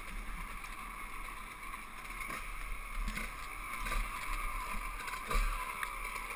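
Muffled, steady running of a 125 cc two-stroke trail bike's engine under a constant hiss, with a few faint knocks and a slight swell about five seconds in.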